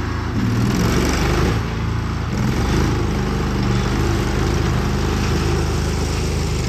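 Small gas engine of a mini compact track loader (Rato 739cc) running steadily, its note and level dipping briefly twice, near the start and about two seconds in, as if under a brief load.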